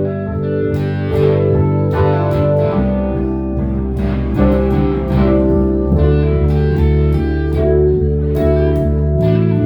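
Instrumental jam on guitar and bass: plucked guitar notes over held bass notes, with the bass changing note about every three seconds.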